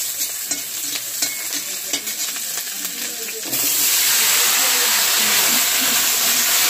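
Sliced onions sizzling in hot oil in a kadai, stirred with a spatula that scrapes the pan. About three and a half seconds in, cut potatoes and flat beans are tipped into the oil and the sizzling suddenly turns loud and steady.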